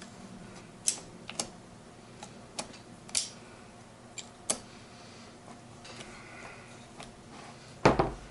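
Sharp metallic clicks and clinks from the hand-shifted gears and 1-2 synchro sleeve of a Ford 2000E gearbox as first and second gear are tried, about half a dozen spread out, then one louder knock near the end.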